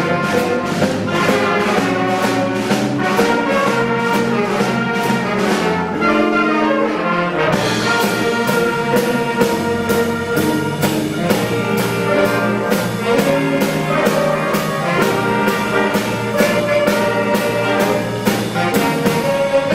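School concert band playing a blues march: brass (trumpets and trombones) carrying the tune over a steady drum beat of about two strokes a second.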